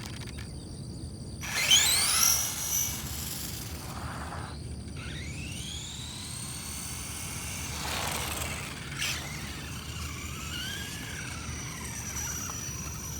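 Electric motor of a no-prep RC drag car whining up as the car launches: a sudden loud start about a second and a half in, with a steeply rising whine that fades within a couple of seconds. Fainter rising and falling motor whines follow later.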